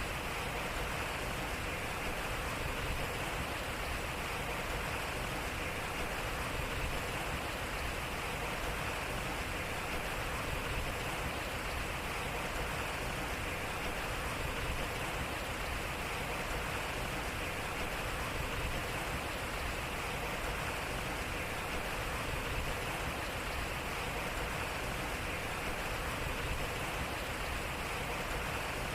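Water flowing over a turning water wheel: a steady, unbroken rush of water.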